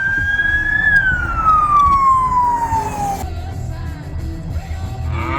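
A single whistle tone that rises slightly for about a second, then slides steadily down in pitch for about two seconds and stops, over a low steady rumble: an end-of-video sound effect in the manner of a slide whistle.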